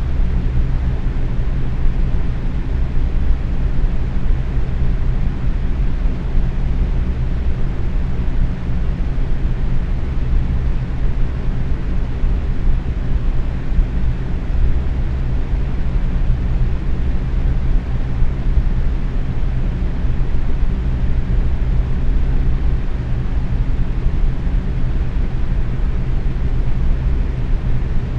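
Box fan running steadily at medium speed: a constant low whoosh of moving air with a faint hum from the motor.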